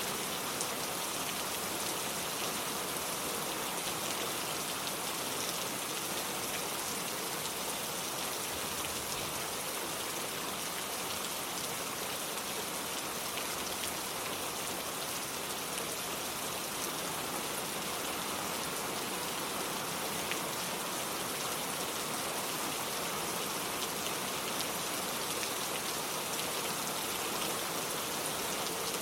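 Steady rain falling, an even hiss with an occasional sharper drop tick.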